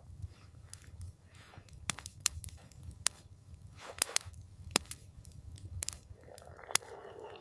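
Campfire crackling: scattered sharp pops and snaps from the burning wood over a low steady rumble of flame. A soft rushing swell comes in near the end.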